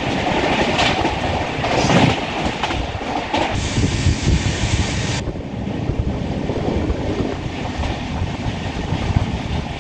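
Passenger train running along the line, heard from aboard: a steady rumble and rush of air with wheels clacking over rail joints a few times early on. A high hiss drops away suddenly about five seconds in.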